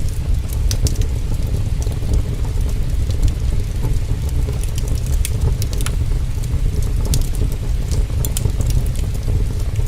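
Heavy rain with a steady low rumble, mixed with the irregular pops and crackles of a wood fire.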